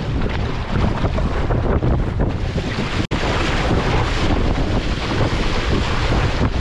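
Strong wind blowing across the microphone, a loud, dense rumble that rises and falls in gusts; the sound cuts out for an instant about three seconds in.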